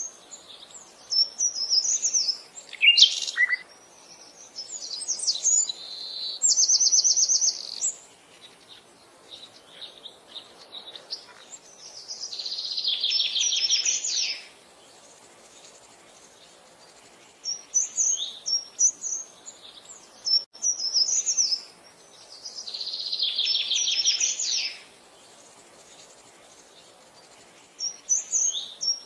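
Wild birds singing: bursts of high chirps and short phrases, and twice a fast trill lasting about two seconds, with quiet gaps between the phrases.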